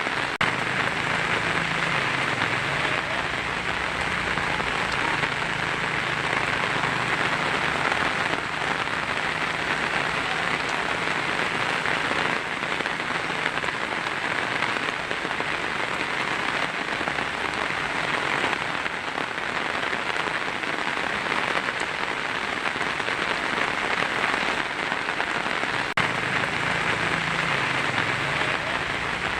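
Heavy rain falling steadily on a tin roof, a continuous even patter with no break.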